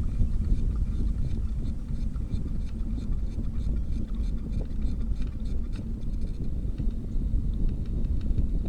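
Wind rumbling on the microphone while riding a bicycle, with faint, irregular ticking over it.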